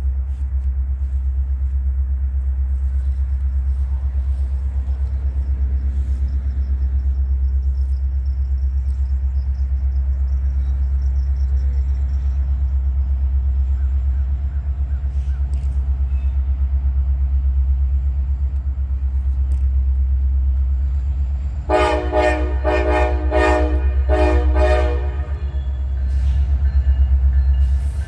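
Diesel freight locomotives rumbling steadily past, the horn sounding a quick run of about six short blasts some 22 seconds in.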